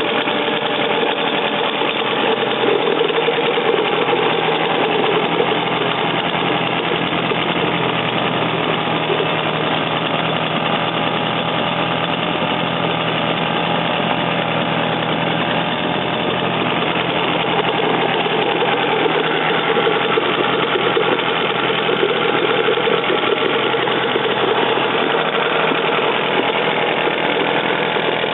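British Seagull Century outboard motor's single-cylinder two-stroke engine running steadily.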